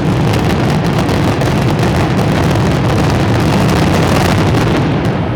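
Fireworks finale barrage (traca final): a dense, unbroken run of explosions and crackles over a deep rumble, thinning out near the end.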